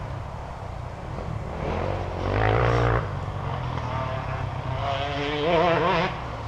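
Dirt bike engine running, with the revs wavering up and down, louder for a second about two seconds in and rising again near the end.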